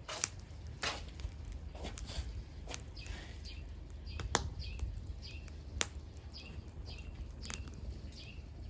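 Firewood burning in a fire pit, crackling with sharp pops at irregular intervals. A bird chirps over and over in the background from about the middle on, in short falling notes.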